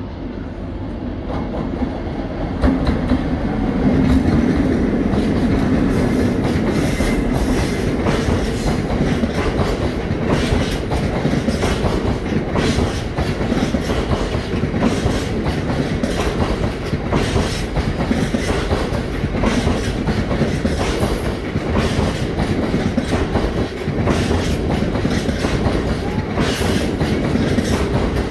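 Model train running on the layout track, its wheels clicking steadily over the rail joints. It grows louder about three seconds in.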